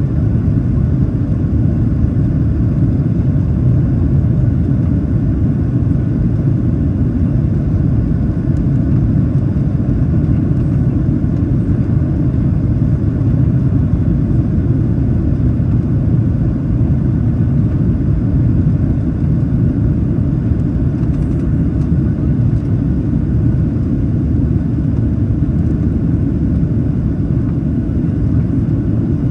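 Steady low rumble of a Boeing 737-800's CFM56-7B jet engines and rushing air, heard inside the passenger cabin during the climb after takeoff.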